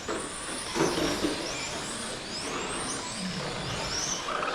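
Electric RC touring cars racing: several brushless motors whine, rising and falling in pitch over and over as the cars accelerate and brake around the track.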